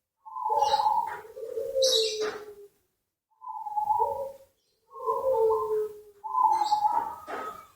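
Zebra dove (perkutut) cooing in its rolling, repeated phrases, four of them with short pauses between.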